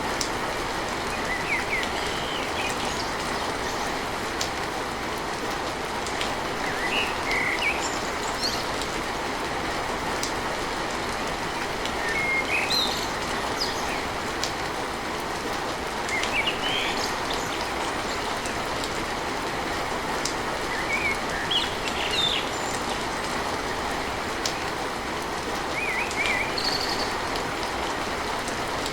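Steady rain on a tin roof, an even rushing hiss. Short bird chirps come through every few seconds.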